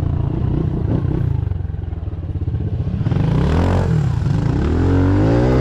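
Pit bike engine revving on a hill climb, with the bike rattling: it eases off about two seconds in, then revs up again twice, the pitch rising each time.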